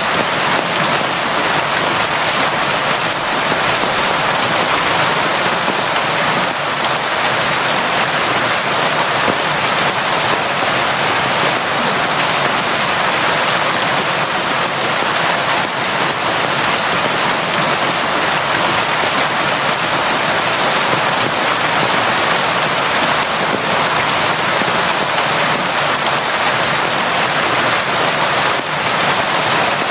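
Steady, heavy rain falling in a constant dense patter, even in level throughout with no breaks or thunder.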